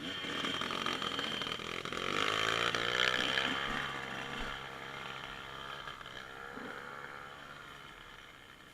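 Dirt bike engine running under throttle, its pitch rising as it gets louder, loudest about three seconds in, then fading steadily as the bike moves away.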